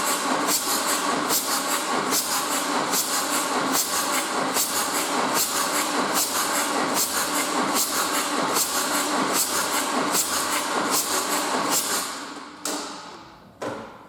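Fiat Ducato 2.3 MultiJet four-cylinder turbodiesel engine running on a test stand with an even, repeating beat, then shut off about twelve seconds in and running down.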